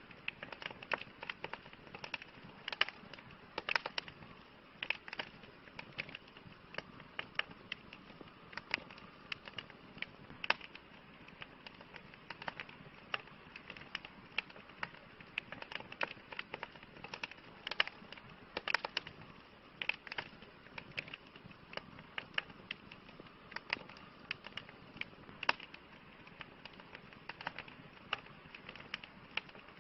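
Wood fire crackling, with irregular sharp pops and snaps several times a second over a faint hiss.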